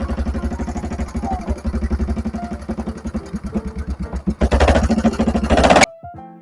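Motorcycle engine running with a steady, rapid putter, louder and rougher for its last second or so, then cut off abruptly.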